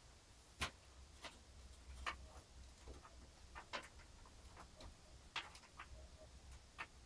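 Faint, irregular clicks and taps, about one a second, from handling the primary IDE ribbon cable and its plastic connector inside a PC case, over a low steady hum.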